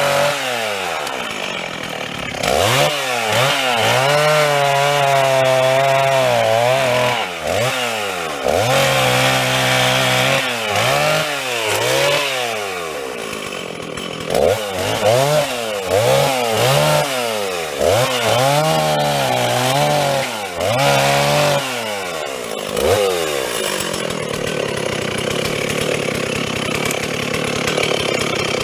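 Stihl two-stroke chainsaw cutting wood, repeatedly revved up to full throttle, held there through a cut and dropped back, about eight times. Near the end it settles to a lower, steadier running sound.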